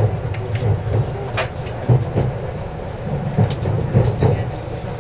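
JR East 253 series electric train running at speed, heard from inside the passenger car: a steady low rumble with a few sharp, irregular clicks and knocks.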